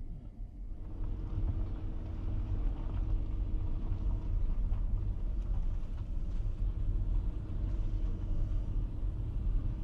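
Low, steady engine and tyre rumble of a road vehicle on the highway, growing louder about a second in and then holding.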